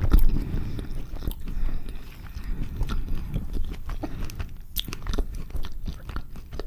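Close-miked chewing of a mouthful of carne asada burrito, with many short mouth clicks.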